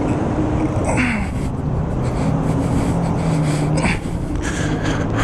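Motorcycle engine running at low speed, its pitch dropping about a second in and then holding steady, with wind rumble on the microphone.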